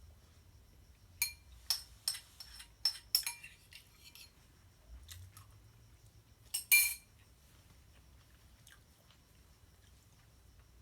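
Cutlery clinking against a dish: a quick run of sharp, slightly ringing clinks over about three seconds, then a louder double clink about two-thirds of the way in.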